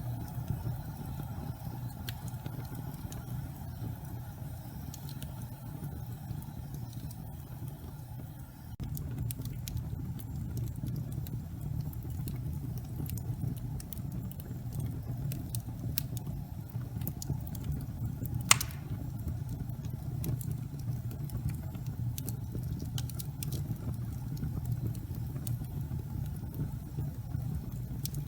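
Fireplace fire burning with a steady low rumble and scattered light crackles, one sharper pop about two-thirds of the way through. The rumble grows a little louder about a third of the way in.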